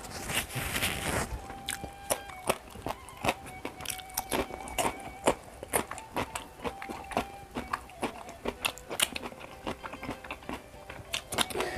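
Close-up eating sounds: a man chewing carp with pecak sambal, with frequent wet smacks and clicks of the mouth and fingers. A short hissing burst comes at the start.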